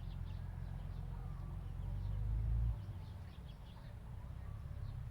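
A steady low rumble, swelling about two seconds in and dropping off abruptly a moment later, with faint, quick high chirps of birds in the background.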